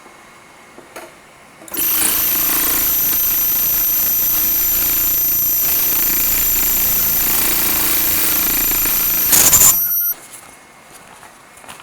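Double-feed ultrasonic sewing machine running as it seams synthetic material: a loud, steady noise with a high-pitched whine. It starts about two seconds in, after a couple of small clicks, and cuts off suddenly after about eight seconds.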